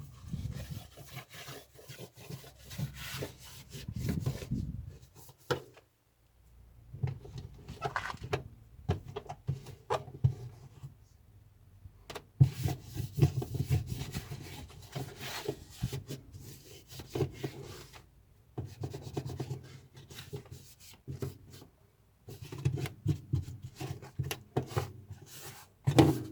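Irregular rubbing and scraping with many small knocks and clicks, in bursts of a few seconds separated by short pauses.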